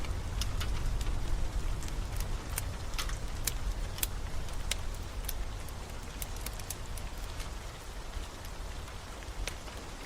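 Steady rain mixed with the irregular sharp crackles and pops of a wood fire, over a low rumble.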